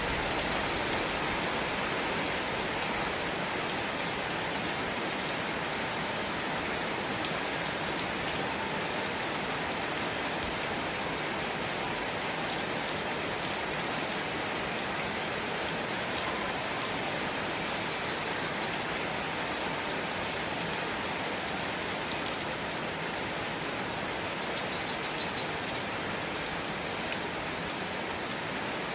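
Steady rain falling: an even hiss of many drops, with faint individual drop ticks scattered through it.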